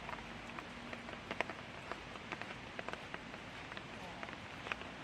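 Light rain falling steadily, with irregular individual drops ticking close by over the even hiss.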